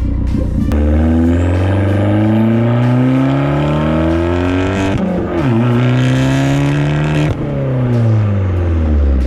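Abarth 500's turbocharged 1.4-litre four-cylinder, fitted with a catless downpipe and catless cat-back exhaust, accelerating under load. The engine note climbs steadily, drops sharply at a gear change about five seconds in, climbs again, then drops and falls away as the revs come down.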